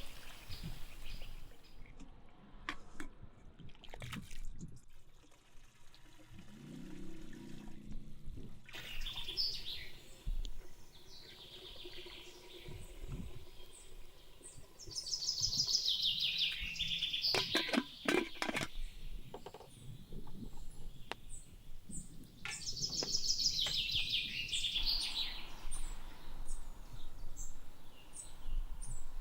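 Songbirds singing: bursts of rapid high trilled notes, loudest about halfway through and again a few seconds before the end, with a few light clicks in between.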